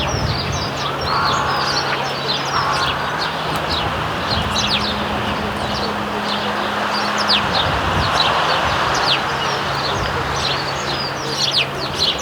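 A flock of house sparrows chirping busily: many short, rapid chirps overlapping throughout, over a steady low hum and background noise.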